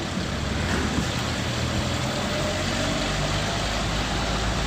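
Car driving along a road, heard from inside the cabin: a steady engine and road rumble with tyre noise.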